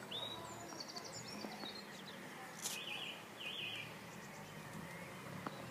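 Birds chirping in the background: a short call, a quick run of high notes, then two warbled phrases, over a steady low outdoor hum.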